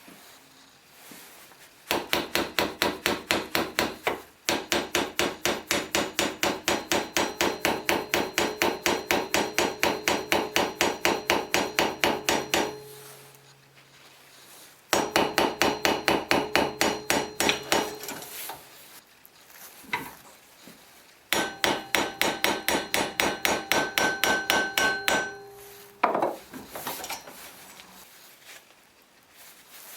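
Small hammer striking metal in quick, even blows, about four a second, with a ringing tone, in three runs: a long one of about ten seconds, then two shorter ones after brief pauses.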